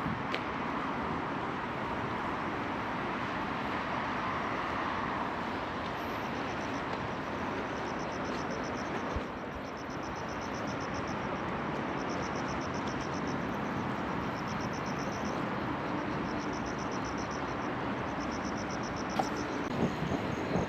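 Steady outdoor hum of city traffic. From about six seconds in, insects chirp in repeated high, pulsing trills about a second long.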